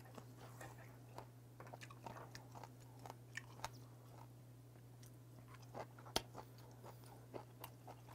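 Faint chewing of boiled beef tongue, with scattered small clicks and taps of knife, fork and chopsticks against the board and dishes, the sharpest about six seconds in. A steady low hum runs underneath.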